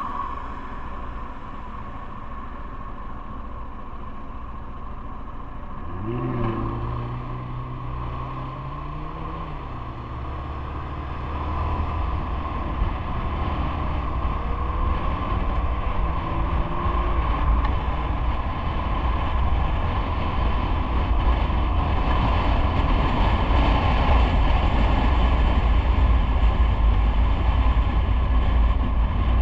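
Riding noise on the road: an engine note rises about six seconds in and holds briefly, then wind and road rumble grow steadily louder as speed picks up.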